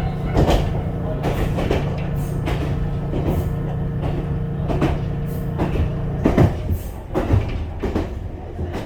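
Ichibata Electric Railway train running, heard from inside the car: the wheels knock repeatedly over rail joints, under a steady hum that cuts off about six seconds in.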